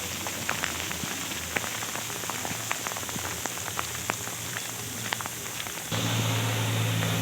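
Rain and sleet hitting a car's roof and windscreen: a steady hiss with scattered sharp ticks of single drops. About six seconds in, a louder low steady hum comes up beneath it.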